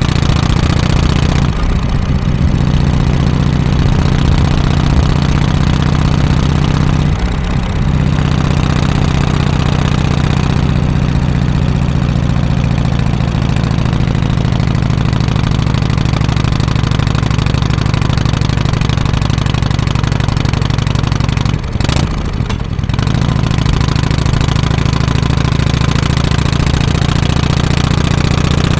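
Harley-Davidson FXSTC Softail Custom's 1340 cc Evolution V-twin idling steadily through its exhaust, with two brief dips in the note, about seven seconds in and near two-thirds of the way through.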